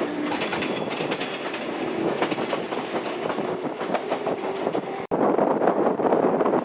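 A train running on rails, its wheels clicking over the rail joints over a steady rushing noise. About five seconds in the sound cuts off abruptly and a louder, steadier rushing noise takes over.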